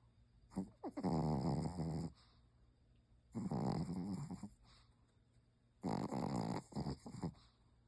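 A Pomeranian snoring in its sleep, with a snore that hardly sounds like a dog's. Three long snores come about two and a half seconds apart, each lasting a second or so.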